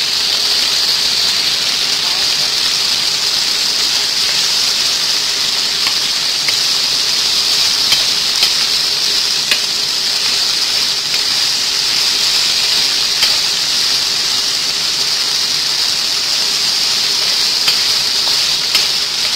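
Chicken strips sizzling steadily in hot oil in a nonstick frying pan, with a few faint clicks of a wooden spatula against the pan.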